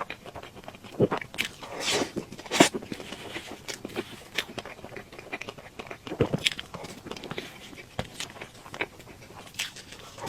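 A person eating cake close to the microphone: irregular chewing and biting with sharp wet mouth clicks, a few louder bites about one to three seconds in.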